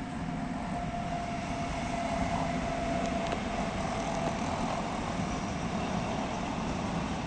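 Container freight train rolling past: a steady rumble of wheels and wagons, with a faint thin whine that fades out about halfway through.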